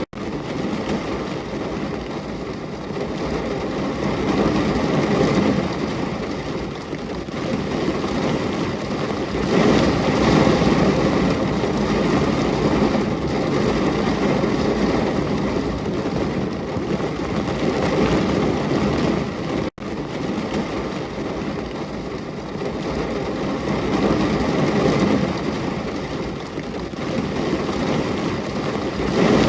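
Rain falling steadily, a continuous rushing hiss that swells and eases every few seconds. It cuts out for an instant about 20 seconds in.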